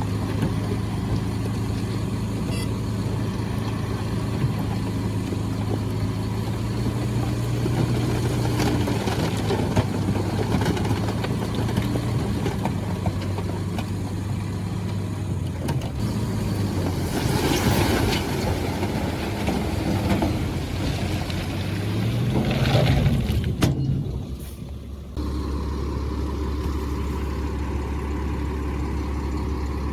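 Heavy diesel construction machinery running steadily, with an engine revving up about two thirds of the way in. About three quarters of the way in, the sound changes abruptly to a lower, steady engine hum.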